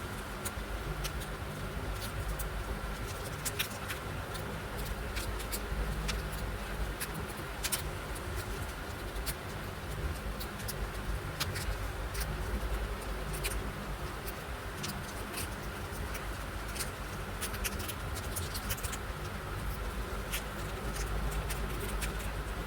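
Scattered small clicks and handling sounds of paper crafting over a steady low background hum.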